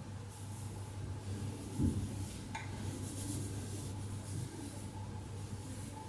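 Quiet room tone with a steady low hum and faint handling of small objects: a soft bump about two seconds in and a light click shortly after.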